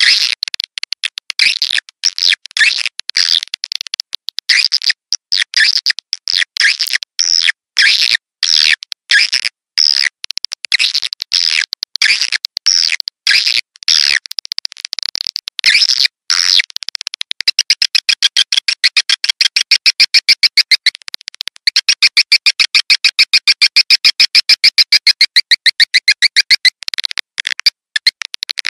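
Edible-nest swiftlet calls played as a swiftlet-house lure sound: dense, high twittering chirps. About two-thirds of the way in they change to a fast, even run of rapid chirps lasting some ten seconds, then go back to irregular twittering.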